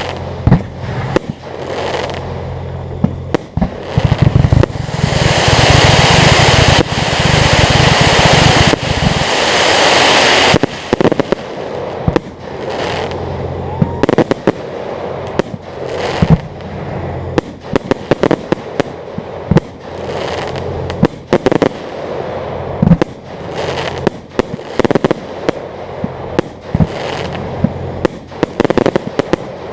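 Aerial fireworks display: a run of sharp bangs and booms from bursting shells, with a loud, dense barrage from about four to ten seconds in.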